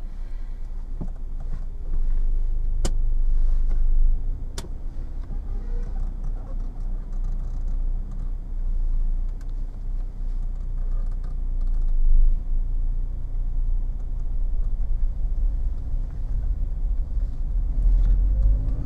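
Car engine running as the car is driven, a steady low rumble that gets louder about two seconds in. Two sharp clicks come a couple of seconds apart early on.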